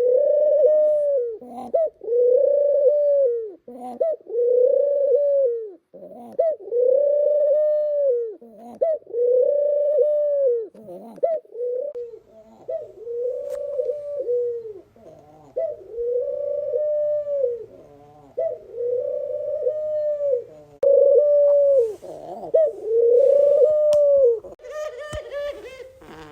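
A pet dove cooing over and over, about one coo every two seconds. Each coo rises and falls in pitch in a low arch.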